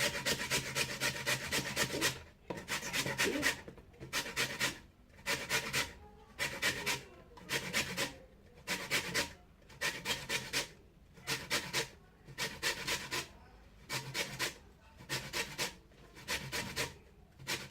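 A lemon being grated on the fine side of a hand grater to take off the zest: a continuous rasping at first, then separate strokes about one a second.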